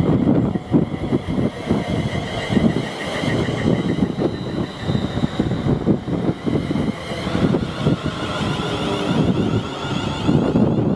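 A train passing on the line: a continuous rumble with a steady high whine above it that dips slightly in pitch about seven seconds in.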